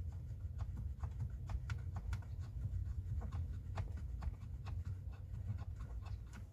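Light, irregular clicks and scrapes of hand tools on a hydraulic handbrake line fitting, over a low steady rumble.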